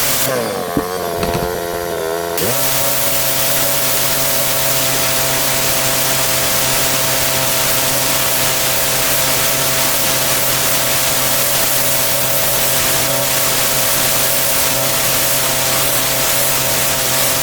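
Petrol pressure washer engine whose pitch wavers and dips for the first couple of seconds. From about two seconds in, a high-pressure water jet hisses steadily over the engine, which settles to an even drone under load.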